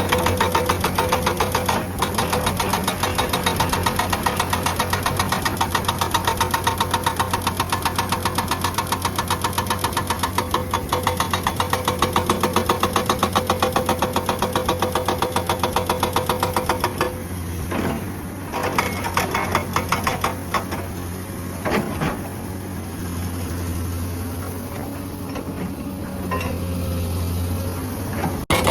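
Hydraulic breaker on a Komatsu excavator hammering rock in a rapid, even stream of blows, with the excavator's engine running underneath. About seventeen seconds in, the hammering breaks into short bursts, then leaves the engine running alone for a few seconds before it starts again near the end.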